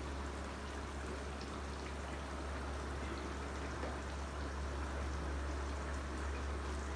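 Butter chicken gravy simmering and bubbling steadily in an uncovered clay pot, cooking down towards a dry finish, over a steady low hum.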